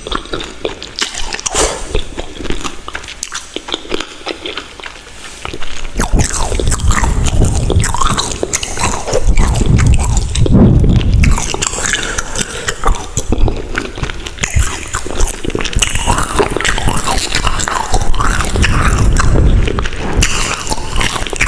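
Close-miked ASMR eating: chewing and biting food with wet mouth clicks and smacks, getting louder and fuller about six seconds in.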